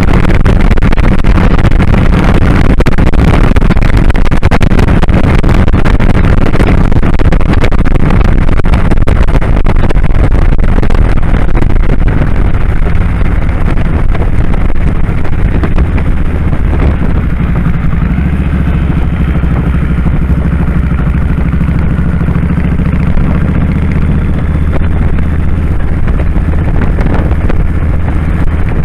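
2001 Kawasaki Drifter 1500's V-twin engine running under way, heard loud with rushing wind on the microphone. The engine note eases and settles lower a little past halfway.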